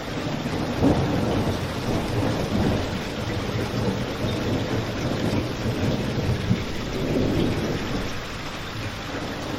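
Steady heavy rain mixed with a crackling fireplace. The low part of the sound swells and eases every few seconds, with a brief louder moment about a second in.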